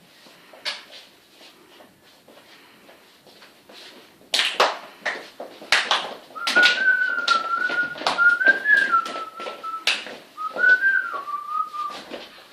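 A person whistling two short wavering phrases, over a run of sharp knocks that begins about four seconds in.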